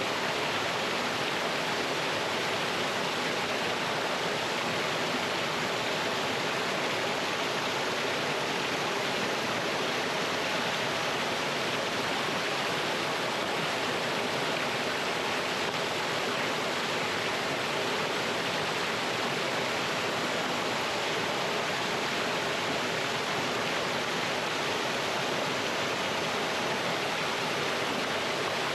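Mountain stream water pouring over rocks in a small waterfall, a steady even rush with no change.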